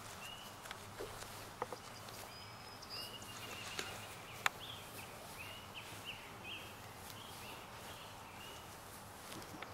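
Quiet outdoor background with a small bird giving a run of short, repeated chirps, and a few sharp clicks, the loudest about halfway through.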